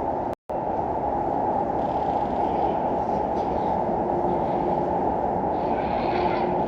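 A steady low rumbling noise that cuts out completely for a moment about half a second in, then carries on evenly.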